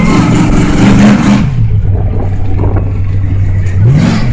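Monster truck engine running under the riders. A dense noise lies over it for about the first second and a half, then it settles to a steady low drone, rising briefly in pitch near the end as it revs.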